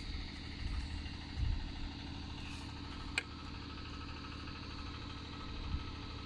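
An engine idling steadily, with a single sharp click about three seconds in.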